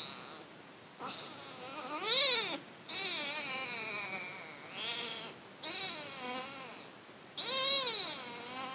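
Kitten meowing over and over, about five high-pitched cries, some of them long and drawn out.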